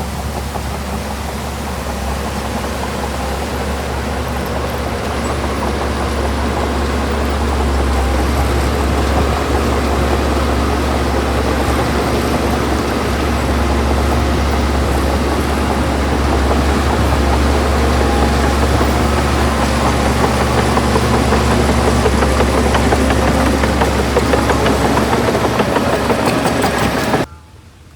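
Heavy diesel engine of earthmoving machinery running steadily, slowly growing louder, then cut off abruptly shortly before the end.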